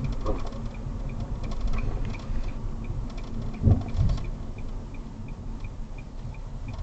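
Inside a Nissan Kicks cabin on the move: a steady low road rumble with the turn-signal indicator ticking about three times a second, and two dull thumps close together a little past halfway.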